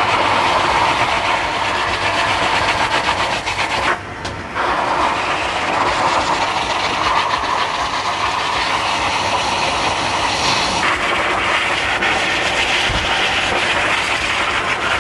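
Dog grooming dryer blowing a steady rush of air while a dog's legs are dried, with a brief drop about four seconds in.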